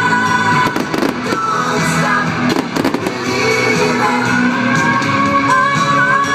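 Fireworks going off over music that plays throughout, with a cluster of sharp bangs and crackles about a second in and another around three seconds in.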